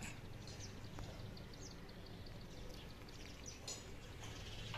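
Faint bird chirps, short and scattered, over a low steady background hum.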